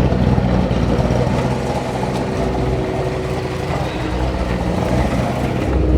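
Twin-turbo Z06's LS7-based V8 running steadily at low revs, easing a little in the middle and picking up again near the end.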